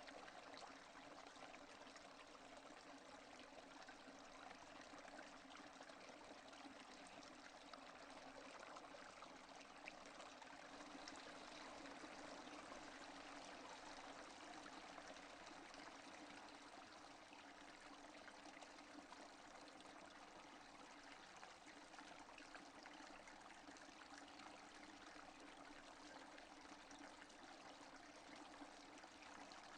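Faint, steady rain falling, an even hiss of water.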